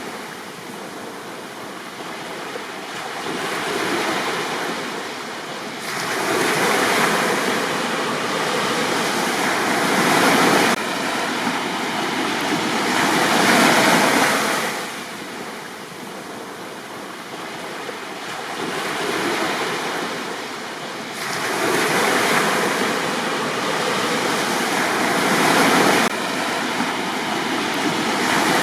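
Sea waves breaking on a beach and washing back, the surf swelling and easing every few seconds.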